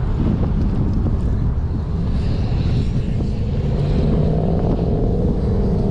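Wind buffeting the microphone of a riding cyclist's camera: a heavy, steady low rumble. A faint wavering hum comes in about halfway through.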